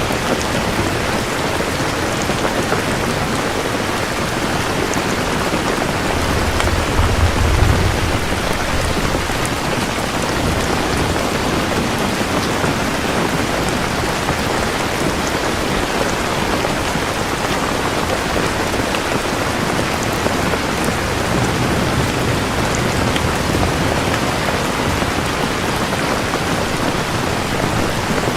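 Steady heavy rain falling, with a low thunder rumble swelling and fading about a quarter of the way in and a fainter rumble later.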